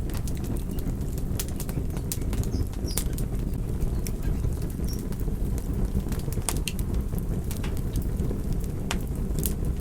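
Wood fire burning, with a steady low rush of flame and frequent sharp crackles and pops.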